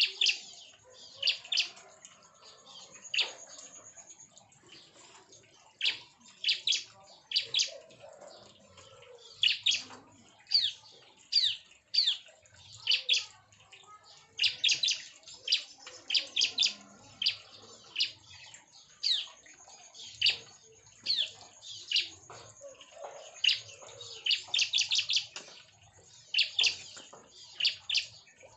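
Bar-winged prinias (ciblek) chirping in an aviary colony: short, sharp high chirps, now single and now in quick runs, repeating every second or so.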